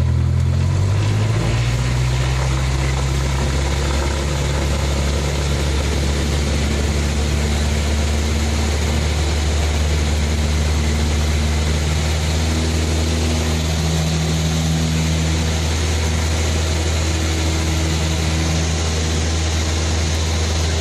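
Cessna 172's piston engine and propeller droning steadily at takeoff power, with a broad rushing noise over the engine tone. The pitch steps up slightly in the first couple of seconds, then holds.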